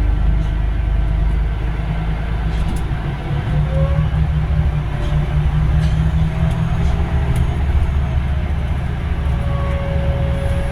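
Scania OmniDekka double-decker bus running with a steady low engine drone, and a faint whine that rises and falls over it.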